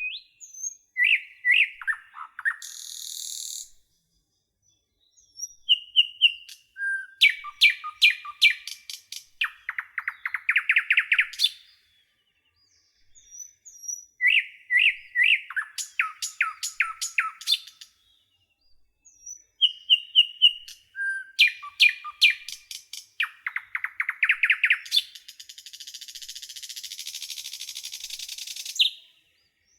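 Nightingale singing in separate phrases with short pauses between them: runs of repeated clear notes, rapid trills that swell in loudness, and near the end a long harsh buzzing rattle.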